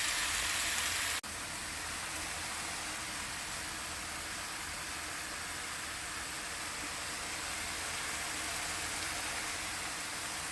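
Chicken frying in coconut oil and curry powder in a pan, making a steady sizzling hiss. The hiss breaks off for a moment about a second in and then carries on slightly quieter.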